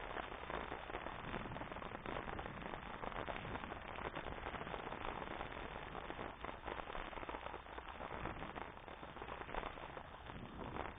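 Riding noise from a bicycle on the move: steady wind buffeting the microphone, with dense crackling and rattling throughout.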